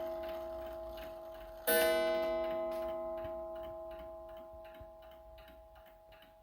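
Seth Thomas beehive mantel clock striking. A struck tone rings on from an earlier blow, and a second strike comes about two seconds in and slowly dies away. The clock's steady ticking comes through as the ringing fades.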